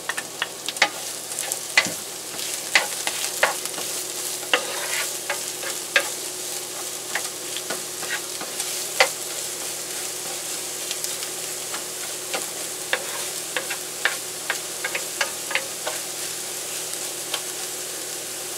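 Chopped onion and garlic sizzling in oil in a nonstick frying pan, with a wooden spatula scraping and clicking against the pan at irregular intervals as it stirs.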